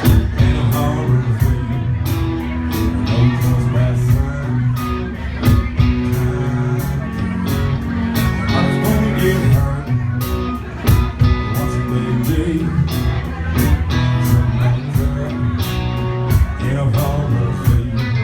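Country rock band music: guitars over a steady drum beat.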